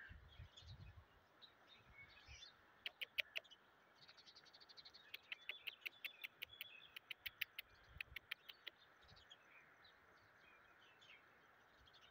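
Faint bird chirping: a short run of quick, sharp chirps about three seconds in, and a longer rapid series from about five to nine seconds, over faint background twittering.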